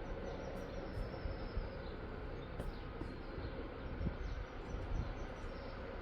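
Sewing machine running steadily as it stitches, with a few faint clicks.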